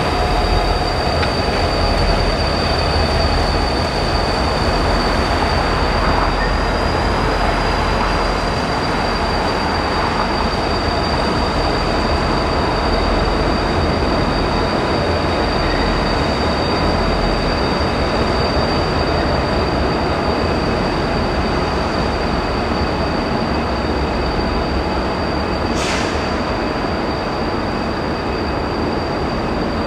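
Freight train of Carload Express diesel locomotives and a covered hopper rolling past on curved track: a steady, loud rumble of engines and wheels, with a thin, high wheel squeal held throughout.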